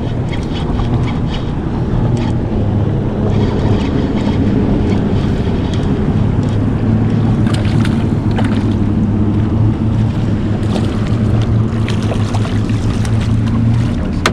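Boat engine running with a steady low hum, wind buffeting the microphone and water around the hull. Scattered light clicks and knocks come in over the second half.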